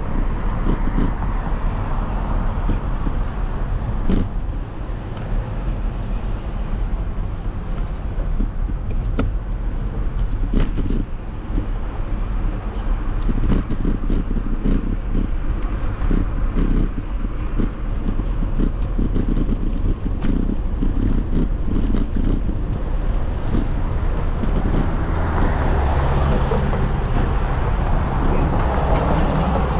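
Riding noise from a bike ride: wind rumbling on the microphone with road noise, broken by many small clicks and rattles. The noise swells louder near the end.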